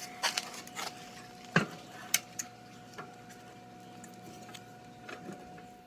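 Metal parts clinking and knocking as they are handled while an engine is fitted into a bicycle frame: a quick run of sharp clicks and knocks in the first two and a half seconds, a few more later, over a faint steady hum.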